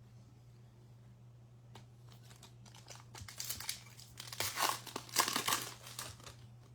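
A foil trading-card pack wrapper being torn open and crinkled, a dense crackle for about three seconds starting about halfway through, over a steady low hum.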